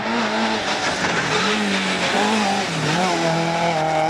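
Rally car driven hard on a special stage: the engine's revs rise and fall with gear changes and lift-offs, dipping sharply about three seconds in before picking back up, over a hiss of tyre noise.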